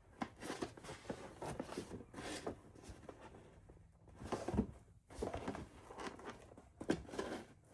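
Handling of small craft items and packaging at a worktable: irregular rustling, taps and light clunks, with one louder knock about halfway through.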